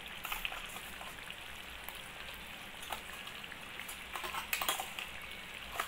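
Chicken curry pieces sizzling softly with a steady crackle in a pressure cooker as ground masala paste is added, with a few short clicks from the spoon about halfway through and near the end.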